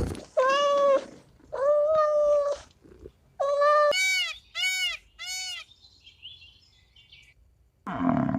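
Cat meowing: three long, drawn-out meows followed by three short mews that rise and fall in pitch. Near the end a different, lower animal call starts.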